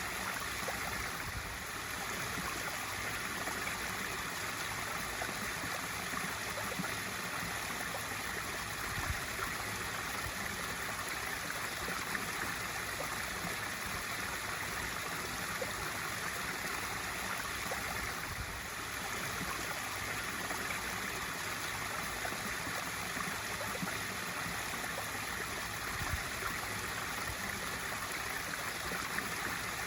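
Water from a swimming pool's waterfall feature pouring and splashing steadily into the pool.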